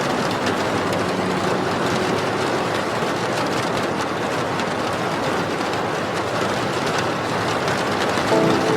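Steady rain, an even hiss without a break, with faint music underneath; a song's instruments come in near the end.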